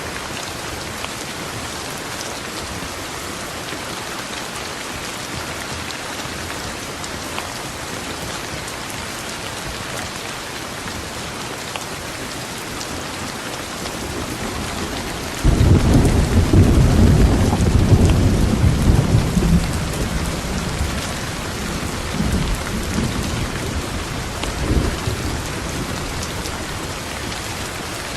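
Steady heavy rain, with a thunderclap breaking suddenly about halfway through and rolling on as a low rumble that slowly dies away.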